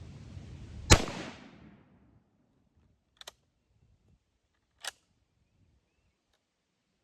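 A single rifle shot from a K31 Swiss straight-pull rifle firing 7.5x55 Swiss full metal jacket ammunition, about a second in, with a short echoing tail. Two short sharp clicks follow, about three and five seconds in.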